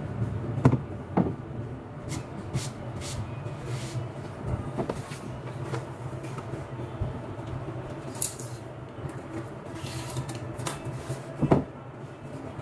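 Scattered knocks, clicks and rustles as parts and packaging are handled, with sharp knocks about a second in and again near the end, over a steady low hum.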